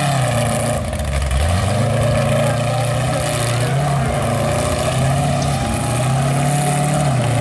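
Off-road racing truck's engine running under load, its pitch rising and falling several times as it is revved.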